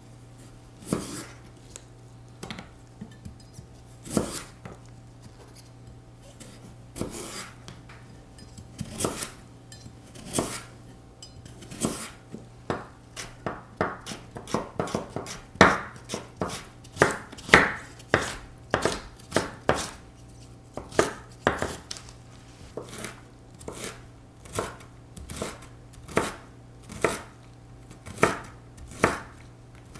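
Kitchen knife chopping on a cutting board, a few scattered strokes at first and then a steady run of about two strokes a second, over a faint steady low hum.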